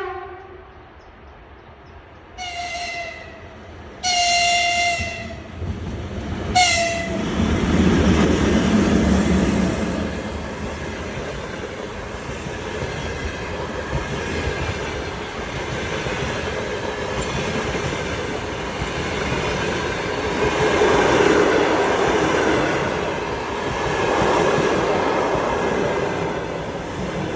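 2ES6 electric freight locomotive sounding its horn: one blast right at the start, then three more over the next several seconds, the third the longest. Then the locomotive and its string of freight wagons roll past with a steady noise of wheels on rails.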